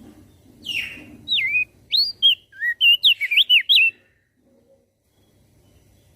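Crested white-eye (opior jambul) singing a short loud phrase: a harsh rasping note, then a quick run of swooping whistled notes that stops about four seconds in. A faint low hum lies underneath.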